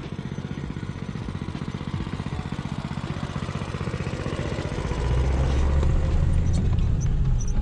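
A small engine running with a rapid, even firing pulse. It grows steadily louder, and its note gets deeper and stronger about five seconds in.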